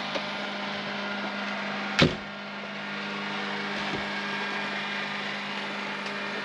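Steady machine hum with a constant low tone, and one sharp knock about two seconds in.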